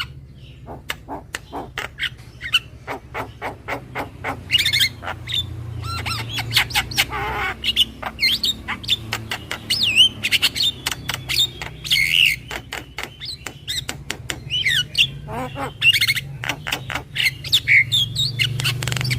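Javan myna (jalak kebo) calling in its whiny 'kenyih' style: runs of rapid sharp clicking notes mixed with squeaky, quickly bending whistled chirps, over a steady low hum.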